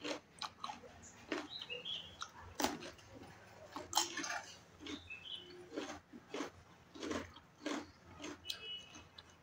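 A person eating with her hand, close to the microphone: irregular bites and chewing, the loudest bite about four seconds in.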